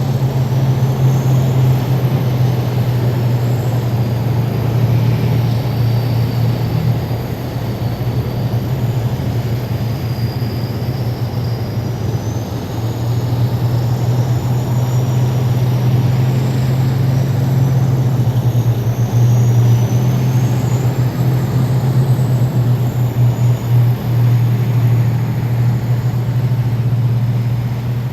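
A column of heavy military vehicles driving past: a loud, steady low engine drone, with a thin high whine that rises and falls in pitch through the middle.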